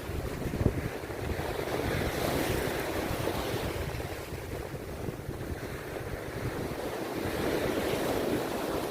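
Rough sea surf breaking and washing on a beach, swelling about two seconds in and again near the end. Wind buffets the microphone with a low rumble underneath.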